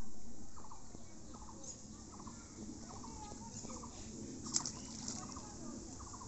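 Birds calling, a string of short repeated calls every second or so, with one sharp click about four and a half seconds in.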